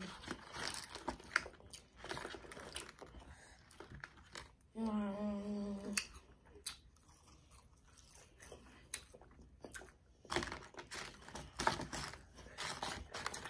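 Children chewing fries and chicken up close, with wet mouth clicks and small crunches. A child gives a short, steady hummed "mm" about five seconds in.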